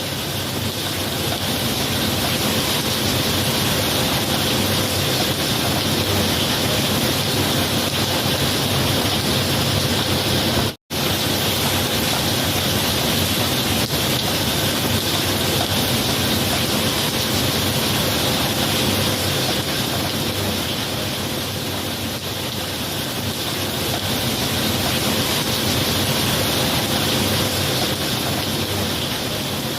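Steady heavy rain, a continuous even hiss. It cuts out completely for an instant about eleven seconds in.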